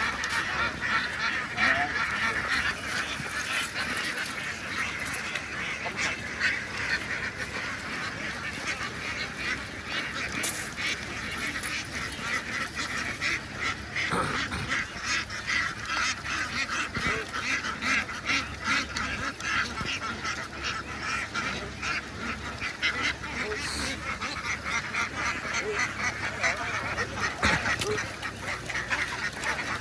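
A large flock of ducks quacking all together, a dense, continuous clamour of overlapping calls with no pause.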